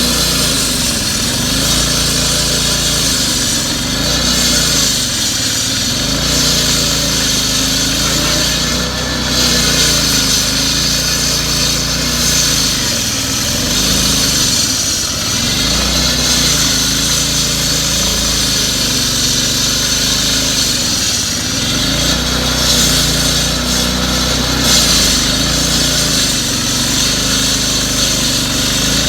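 Engine-driven power tool running steadily at work: a loud high hiss over a low engine note.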